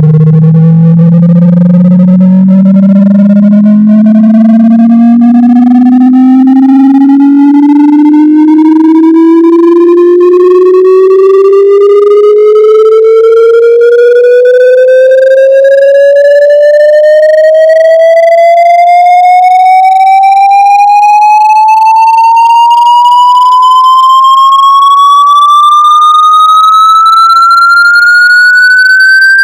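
Loud electronic speaker-cleaning tone with overtones, sweeping steadily upward in pitch from a low hum to a high whine, played to shake water and dust out of a speaker.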